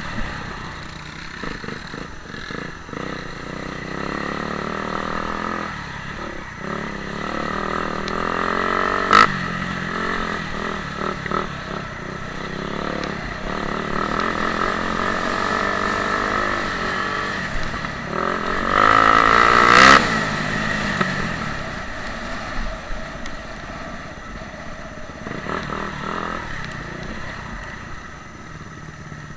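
Motocross dirt bikes running on a track, engine pitch rising and falling as riders rev through the gears. One bike comes closest and loudest about two-thirds of the way in. A single sharp knock is heard about nine seconds in.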